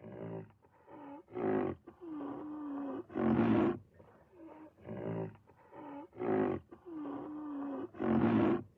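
Big cat roaring: a run of loud, rough roars with lower drawn-out growls between them, the same sequence coming round again partway through.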